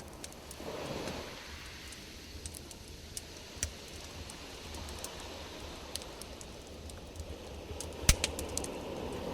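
Campfire crackling: scattered sharp pops over a low rumble, with a louder cluster of snaps about eight seconds in.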